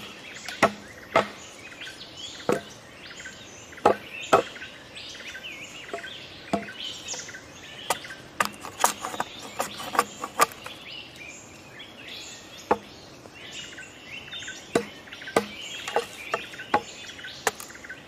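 Small birds chirping continually, crossed by sharp, irregular clicks and knocks, about one a second, the loudest near the start and around four seconds in.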